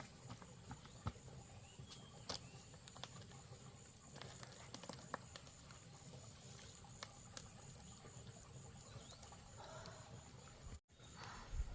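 Faint scattered light clicks and taps over a thin, steady high-pitched tone, briefly cutting out to silence near the end.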